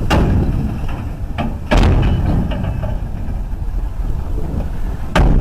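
A vehicle's low, steady rumble broken by three loud bangs of impact: one at the start, one nearly two seconds in, and one near the end.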